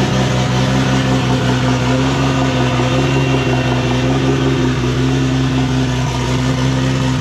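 Toyota Supra's turbocharged engine idling steadily with no exhaust fitted, venting open off the dump pipe: loud and unmuffled.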